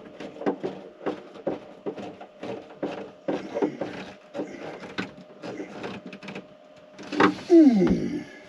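A hand tool clicks in short, even strokes, about two a second, as it works a fastener loose. Near the end comes a louder scrape with a steeply falling pitch.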